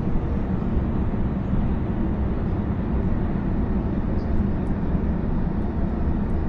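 Steady low rumble of a Sydney double-decker electric train running, heard from inside the carriage.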